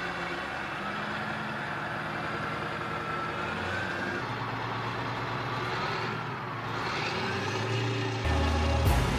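A heavy vehicle's engine running steadily with a whine that wavers in pitch. It grows louder near the end, followed by a sharp knock.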